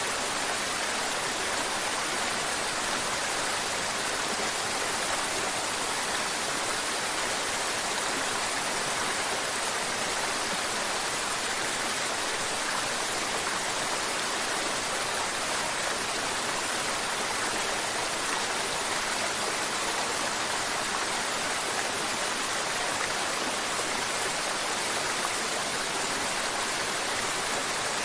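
Mountain river water flowing and babbling over rocks: a steady, even rush of water that does not change.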